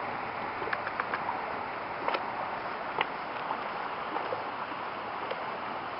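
Steady outdoor wind and water noise, like small waves lapping, with scattered light clicks and ticks.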